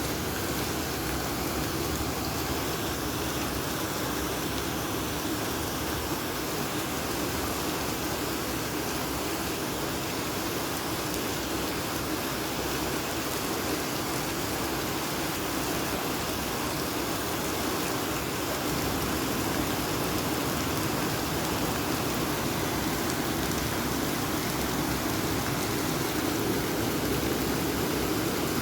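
Heavy rain pouring steadily during a storm, growing a little louder about two-thirds of the way through.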